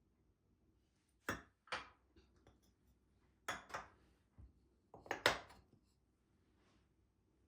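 Dishes and utensils being handled: about seven short, sharp clinks and knocks in three quick clusters.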